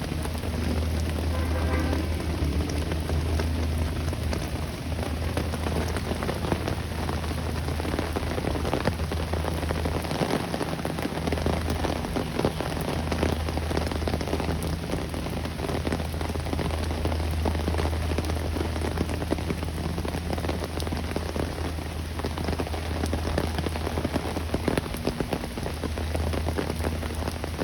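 Steady rain falling, an even patter over a continuous low rumble.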